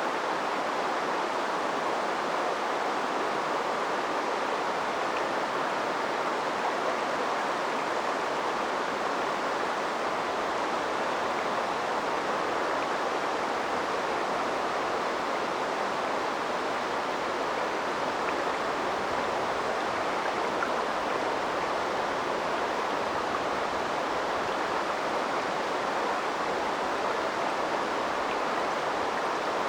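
Steady rushing and babbling of river water flowing, an even, unbroken noise.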